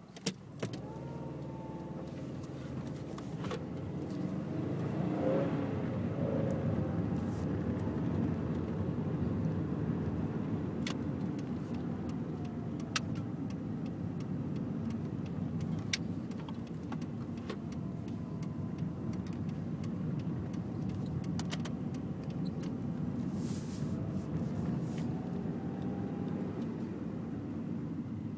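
1999 Subaru Impreza 2.0 Turbo's turbocharged flat-four engine running with road noise as the car is driven; the car has its centre catalytic converter removed. The sound swells about four seconds in and then holds fairly steady, with scattered small clicks and rattles.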